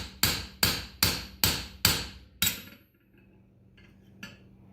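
Farrier's hammer striking a pritchel to punch nail holes through a hot steel horseshoe on the anvil: six ringing blows, about two and a half a second, stopping about two and a half seconds in. A few light metal clinks follow near the end.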